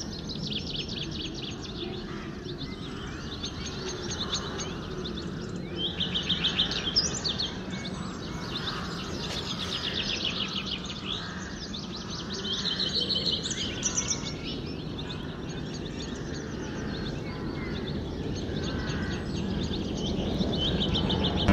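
Songbirds singing in quick repeated trills, one run after another, over a steady outdoor background hiss.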